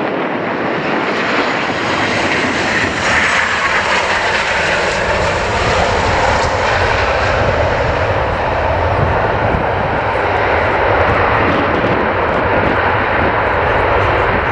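Boeing 737-800 airliner's CFM56 turbofan engines, a loud steady jet noise as the aircraft passes close on arrival, with a faint high whine falling in pitch in the first few seconds.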